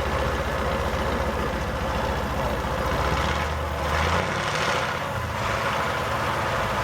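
Heavy truck engine running with a steady low note. About four seconds in the engine note shifts as a broad rush of noise rises and then fades.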